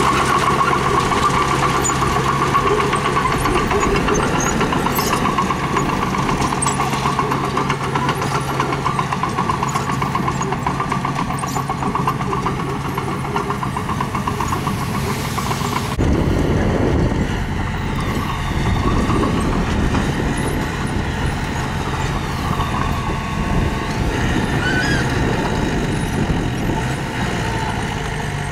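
Diesel engine of heavy earthmoving machinery running steadily, a mini bulldozer or a dump truck. The sound changes abruptly a little past halfway through.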